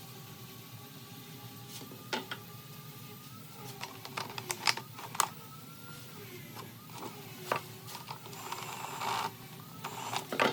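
Workshop handling noises: a scattering of sharp clicks and knocks, a cluster of them in the middle, over a faint steady hum, with a brief rushing noise near the end.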